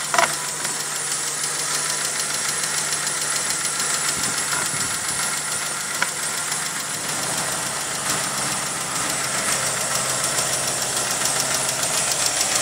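Saab 9-5 2.0-litre turbo petrol four-cylinder engine idling steadily, with a fast fine ticking running through it. Two short clicks stand out, one just after the start and one about six seconds in.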